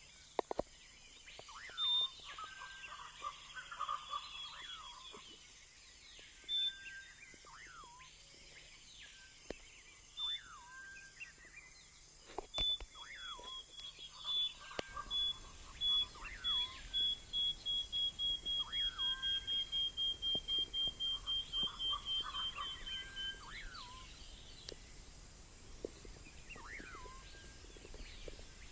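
Several birds calling in the rainforest. Short whistles slide down in pitch, repeated here and there, and from the middle on one bird gives a long run of quick notes, about three a second, that slowly fall in pitch for about ten seconds.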